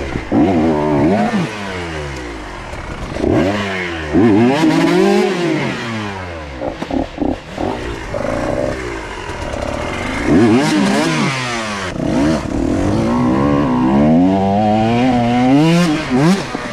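A 125cc two-stroke dirt bike engine ridden hard, its pitch climbing and dropping again and again as the rider opens and closes the throttle.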